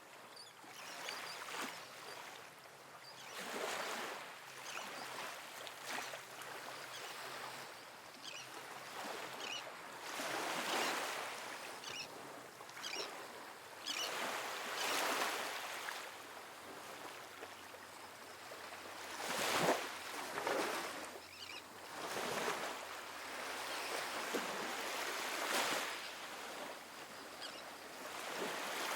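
Calm ocean waves washing onto a sandy beach. Each wash swells and fades as a soft hiss, a new one every few seconds, and the loudest comes about twenty seconds in.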